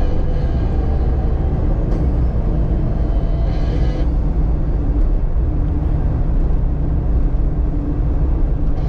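Jeep Cherokee XJ driving, a steady low rumble of engine and drivetrain.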